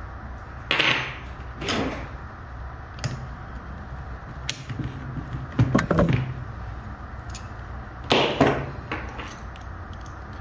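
Metal parts of a B16 brass camping stove being handled and set down with tools: a string of short clinks, knocks and scrapes, the loudest a little before a second in, around six seconds and about eight seconds in.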